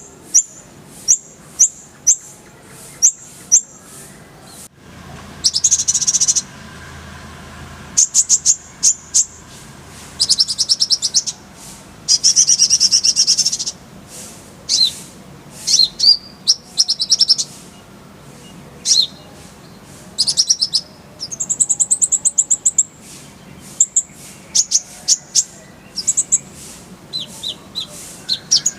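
A kolibri ninja sunbird (konin) singing: sharp, high single chirps at first, then fast trills and rapid chattering phrases.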